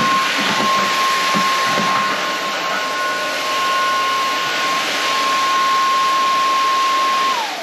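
Inse S610 cordless stick vacuum running, with a steady high motor whine over a rush of air. Near the end it is switched off and the whine falls away as the motor spins down.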